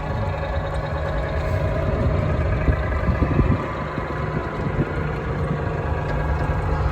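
Engine of a small park ride-on train running steadily, heard from on board, with a constant low rumble.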